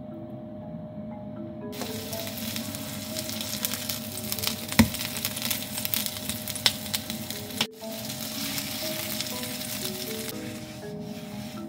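Hamburger steak patties sizzling as they fry in oil in a frying pan, the sizzle starting about two seconds in. A few sharp clicks of a utensil against the pan sound as the patties are turned, the loudest about five seconds in. Soft background music with mallet notes plays throughout.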